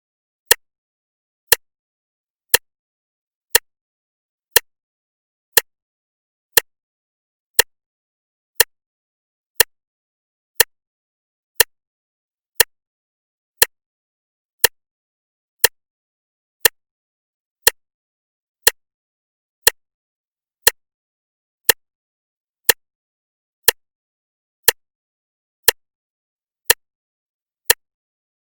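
Clock ticking steadily once a second: short, sharp, evenly matched ticks with nothing heard between them.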